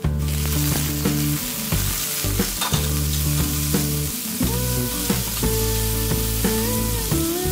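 Whole mushrooms hitting hot oil and browned garlic in a stainless steel pan and frying as they are stirred. The sizzle jumps up suddenly at the start, then keeps on steadily.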